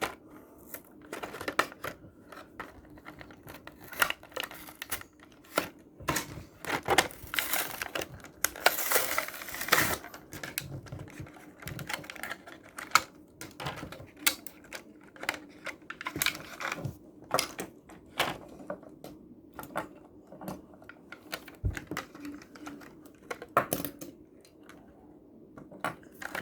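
Plastic blister packaging of a small toy-car 3-pack being pried and torn open by hand: irregular clicks, snaps and crinkling, busiest for a few seconds near the middle.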